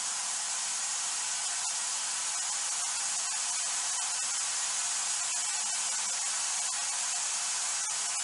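White noise device used for EVP sessions, hissing steadily with a few faint ticks.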